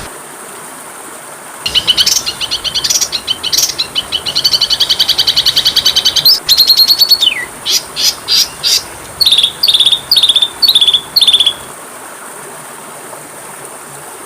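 Oriental magpie-robin (kacer) singing: after a short pause, a burst of high sharp notes, then a fast even trill, a falling slur, and a run of about seven repeated down-slurred whistles, stopping a couple of seconds before the end. A faint steady high hiss lies underneath.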